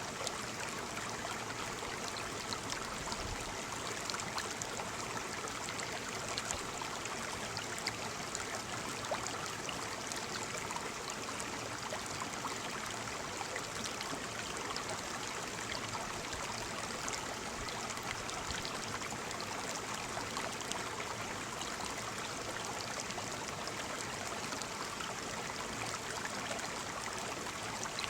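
Waterfall: water falling and splashing in a steady, unbroken rush with fine spattering.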